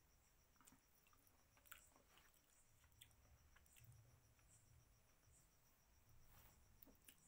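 Near silence, with faint chewing and a few soft scattered clicks from eating by hand.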